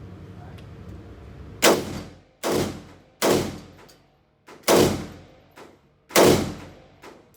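Five gunshots at uneven intervals, each followed by a ringing echo in an indoor shooting range. A low steady hum is heard before the first shot.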